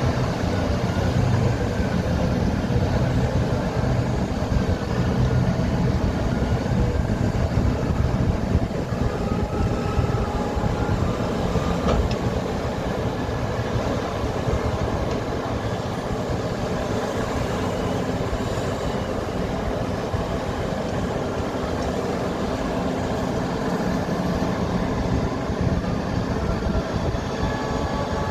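Heavy mining machinery at work: the diesel engines of large hydraulic mining excavators run with a steady, dense low rumble, with faint higher whines over it.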